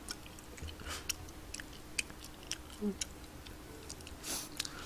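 Soft, intermittent chewing and mouth clicks of someone eating tteokbokki (chewy rice cakes in spicy sauce).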